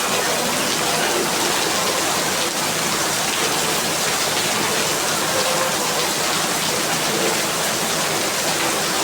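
Steady rain falling on surfaces, an even hiss of rain throughout.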